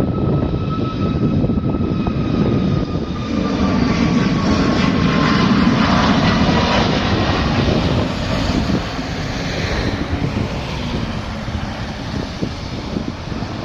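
Airliner taking off, its engines swelling to a peak about halfway through as it passes, with a high whine that falls in pitch, then fading away.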